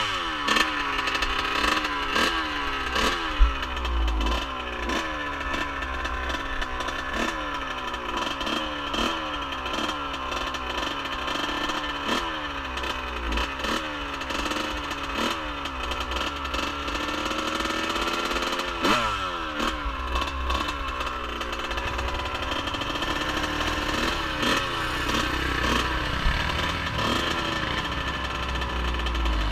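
Off-road vehicle engine revving up and down over and over, about once a second, then running steadier near the end.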